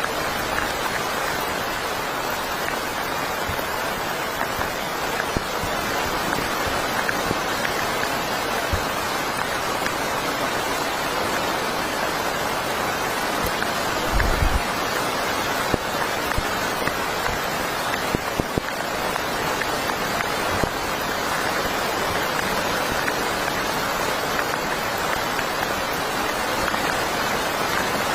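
Heavy rain falling steadily, with scattered sharper drop hits and a brief low thump about fourteen seconds in.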